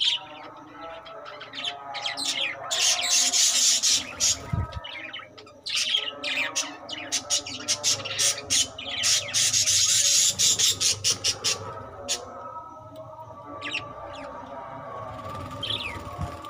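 A colony of budgerigars chirping and chattering, with two loud stretches of dense, rapid chirping: about three seconds in and again about eight to ten seconds in.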